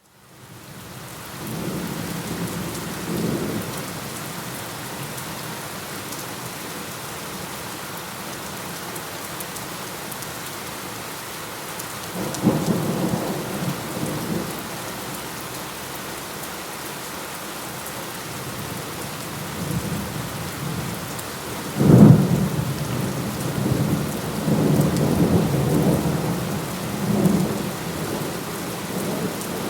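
Steady rain falling during a thunderstorm, fading in from silence at the start. Low thunder rumbles come twice, then a sharp thunderclap about two-thirds of the way through is the loudest sound, followed by several seconds of rolling rumble.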